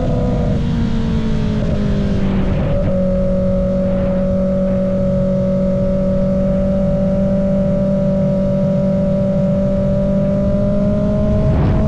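Kawasaki ZX-6R 636 inline-four through a Voodoo Racing slip-on exhaust, running on the move: the engine note eases down a little with a short break between two and three seconds in, holds a steady pitch, then climbs again near the end as the throttle is opened. Loud.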